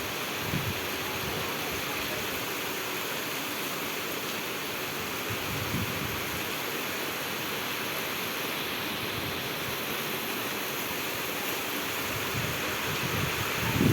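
Steady rain falling, an even hiss with no let-up, broken by a few brief low buffets of wind on the microphone, most noticeably near the end.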